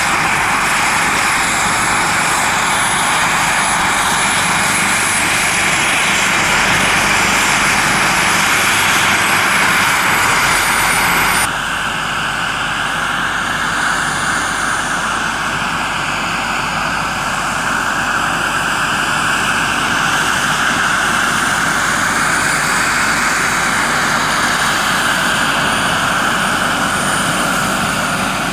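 Radio-controlled scale model helicopter running steadily: a dense rushing engine and rotor noise with a thin high whine. The sound changes abruptly about eleven seconds in, then goes on slightly quieter with a slowly wavering pitch.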